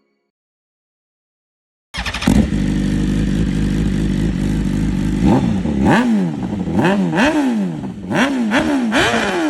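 Motorcycle engine starting about two seconds in and idling, then revved repeatedly, its pitch climbing and falling five or six times.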